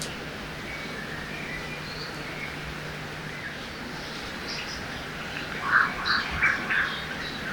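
Forest ambience beside a river: a steady rush of flowing water with scattered small bird chirps, and a short run of louder, repeated bird calls close by about six seconds in.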